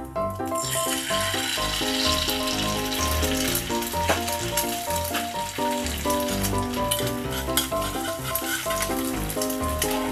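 An egg frying in a hot nonstick pan: a steady sizzle that starts about half a second in, under background music. Near the end a spatula clicks against the pan a few times.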